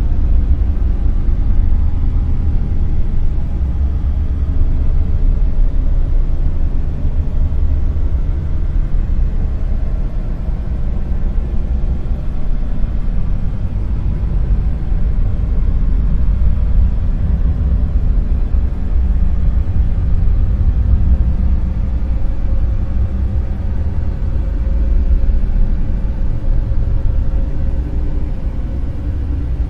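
Dark noise: a steady, deep, low noise that is heaviest in the bass and thins out toward the top, swelling and easing slowly in level.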